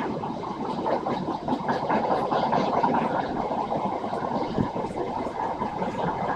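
Renfe train running: a steady mechanical noise with scattered light clicks, and one short low thump about four and a half seconds in.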